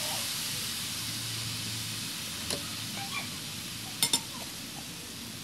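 Fried rice sizzling in a hot wok as a slotted metal spatula stirs it, the sizzle slowly fading. The spatula clicks against the wok once about two and a half seconds in, then twice sharply in quick succession about four seconds in.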